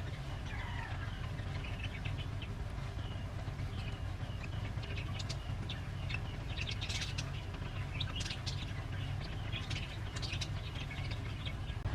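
Small birds chirping in many short, quick calls over a steady low hum.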